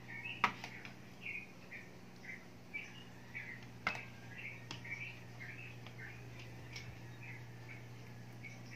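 A small bird chirping over and over, short high chirps about twice a second. A few sharp taps come through it, with a low steady hum underneath.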